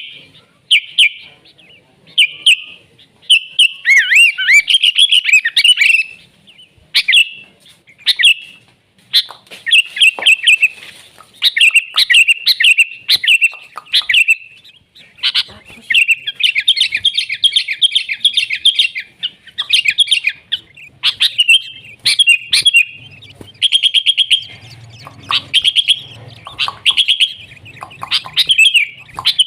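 Sooty-headed bulbul singing: short bubbly whistled phrases repeated about once a second, breaking into quicker chattering runs about halfway through and again near the end.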